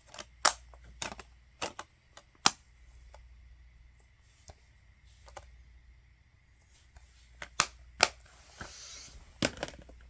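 Plastic disc cases and paper inserts being handled: a string of sharp clicks and taps, with a short rustle of paper about three-quarters of the way through.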